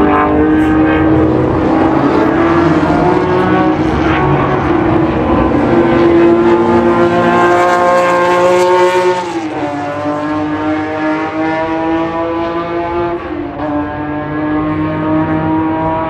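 Historic racing car engine under hard acceleration, its pitch climbing steadily for about nine seconds, then dropping sharply twice, about nine and thirteen seconds in, as it shifts up and pulls again.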